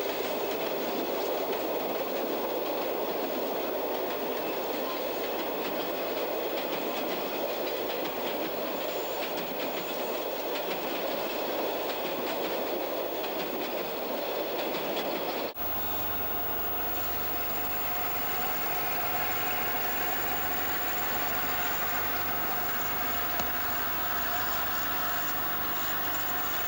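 Wagons of a narrow-gauge freight train rolling past close by, wheels clattering over the rails. About halfway through, the sound cuts to a second freight train rolling through a yard, steadier, with several steady high tones over the rolling noise.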